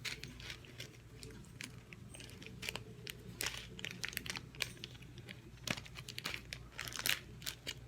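Floam slime with foam beads being handled and worked, giving scattered small crackles and clicks, irregular and several a second.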